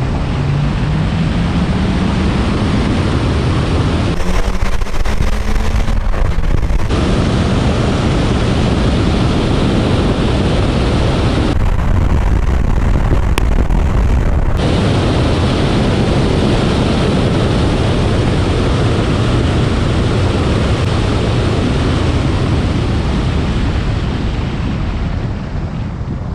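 Hyundai i20N's engine pulling hard at full throttle in a rolling race, its pitch rising at the start, buried under heavy wind rush on the car-mounted camera's microphone. It eases off near the end.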